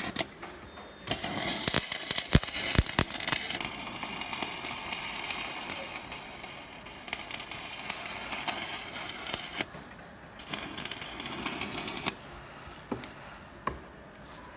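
Stick-welding arc crackling and sputtering from a ZX7-300J inverter welder on a test weld after repair. A few sharp clicks come as the arc is struck, then a dense crackle runs for about nine seconds, breaks briefly, and comes back in a short second run before stopping.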